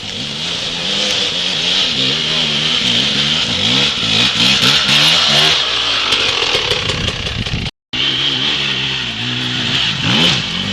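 Dirt bike engine revving up and down repeatedly as the rider works the throttle, over a steady high-pitched hiss. The sound cuts out for a moment about three-quarters of the way through.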